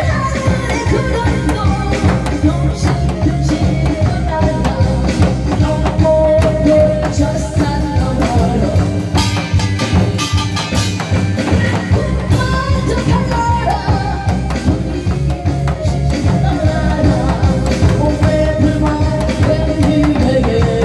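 A woman singing a Korean trot-style song with a steady drum-kit beat behind her.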